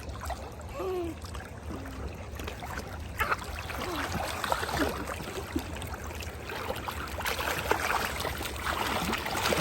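Stream water running over rocks, with trickling and small splashes, and faint voices in the distance.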